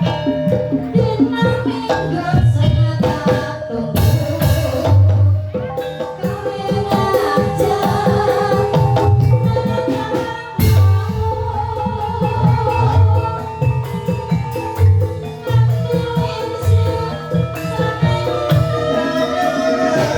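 Javanese gamelan music accompanying an ebeg dance: deep drum strokes and struck percussion under ringing metallophone tones, with a singing voice over it. A sharp loud strike comes about halfway through.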